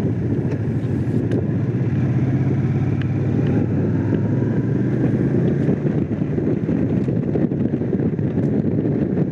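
Honda CX500's water-cooled V-twin engine running steadily while the motorcycle is ridden along.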